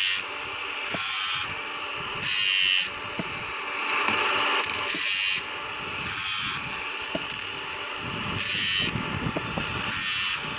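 Angle grinder running steadily while sharpening a chainsaw chain. The disc touches the teeth one after another in short, loud grinding bursts, about seven of them, each lasting about half a second.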